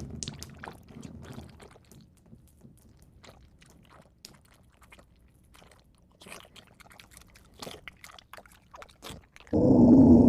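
Movie monster sound effect: scattered clicks and smacks that fade over the first couple of seconds and keep coming sparsely, then a sudden loud growl near the end.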